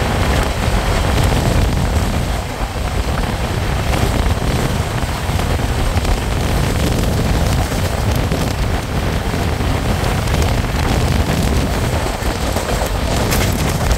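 Moving passenger train running at speed, with a steady loud rumble and rushing noise and no separate knocks standing out.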